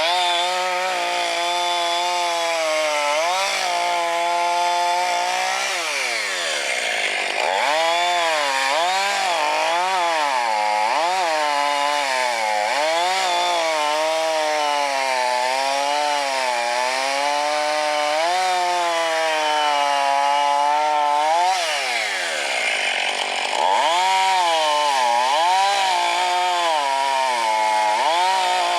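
Chainsaw cutting firewood, its engine note wavering up and down as it loads and unloads in the wood. Twice the pitch sags low and then climbs back to full speed.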